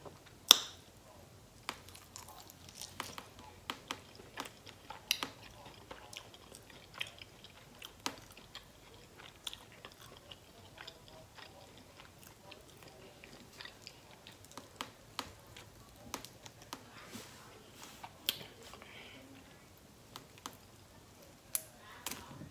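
A person chewing and biting sauced buffalo chicken wings: a steady run of wet mouth clicks and smacks, with one sharp click about half a second in.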